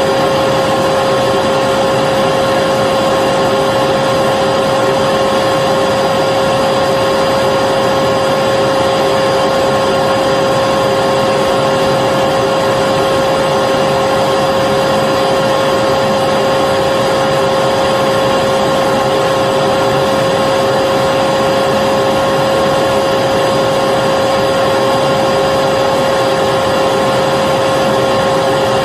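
Vacuum cleaner running steadily, a constant rush of air with a steady motor whine, used as continuous white noise to lull a baby to sleep.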